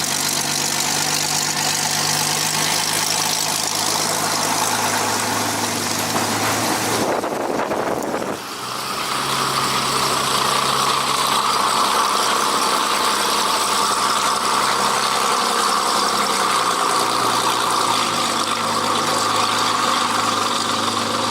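Supermarine Spitfire's V12 piston aero engine running steadily. About eight seconds in there is a brief dip in loudness, after which the note changes.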